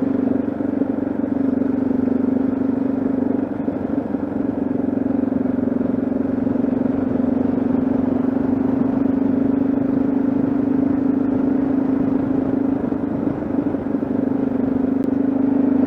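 Yamaha XT660Z Ténéré's single-cylinder engine running at a steady cruise, with only small changes in throttle.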